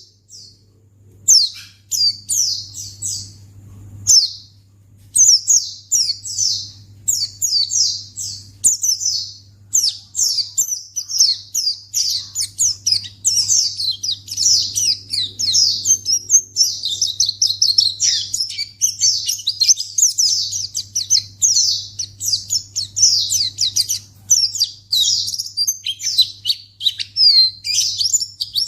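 Pleci (white-eye) song: rapid runs of high-pitched chirps. The phrases come with short gaps at first, then run almost without pause from about five seconds in. A low steady hum sits underneath.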